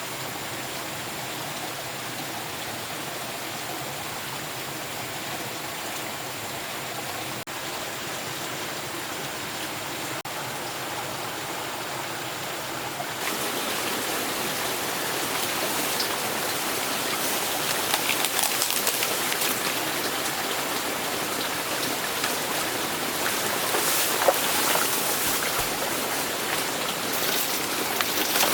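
Steady rush of falling or running water. About halfway in it turns suddenly louder and brighter, with scattered patters of drops.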